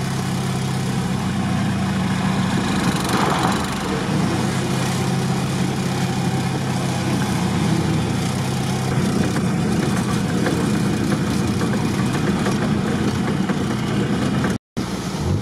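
Off-road vehicle's engine running steadily as it drives slowly, heard from inside the cab. The sound drops out briefly near the end.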